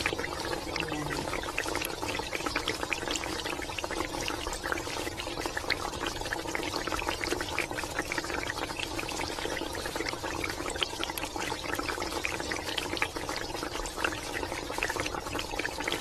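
Chicken simmering in a soy and pineapple sauce in an aluminium wok: a steady bubbling full of small irregular pops and crackles. At the start, sauce splashes as it is ladled over the chicken.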